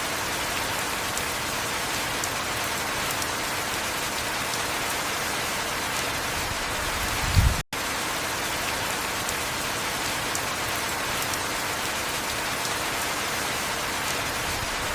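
Steady heavy rain falling, an even hiss. About halfway through there is a brief low thump, and the sound cuts out for an instant right after it.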